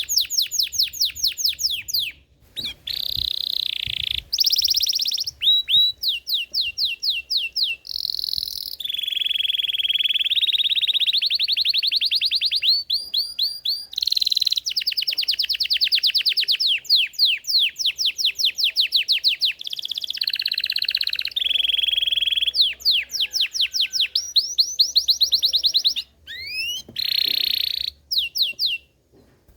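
Belgian canary singing continuously: rapid trills of repeated sweeping notes and rolling tours, with brief pauses between phrases.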